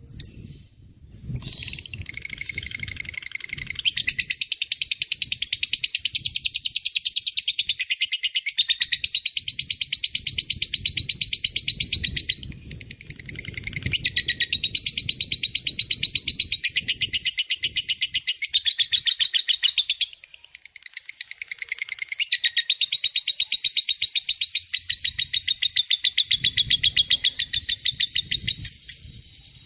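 Lovebird giving its long, rapid chattering trill ("ngekek panjang"), a fast run of shrill repeated notes sustained for many seconds at a time, in three long bouts with brief breaks between them.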